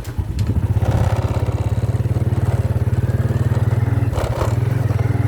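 Motorcycle engine running steadily while the bike is ridden, with an even, rapid firing pulse.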